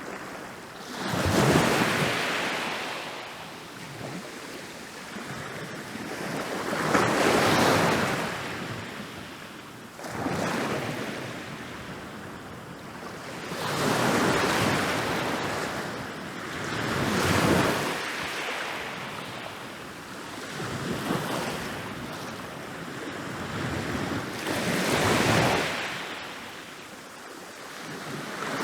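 Ocean waves rolling in and crashing on a beach, each one swelling to a rush of surf and then fading back. The breakers come every few seconds, about six or seven in all.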